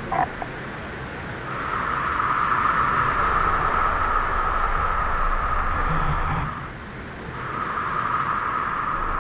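Steady rush of a waterfall and river. A steady high drone joins in about a second and a half in, breaks off briefly around seven seconds and comes back.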